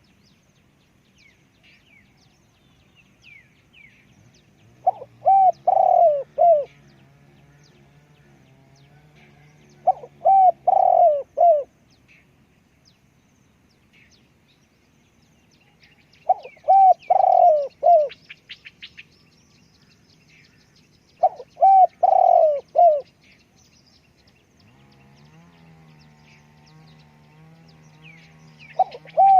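Spotted dove singing its loud coo-croo song: short phrases of four or five cooing notes, repeated about every five seconds, five times. Small birds twitter faintly in the background.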